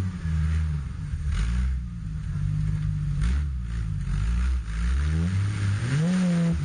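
Off-road 4x4's engine revving unevenly under load as it climbs a steep dirt bank, the revs rising and falling, with a sharp climb in revs near the end.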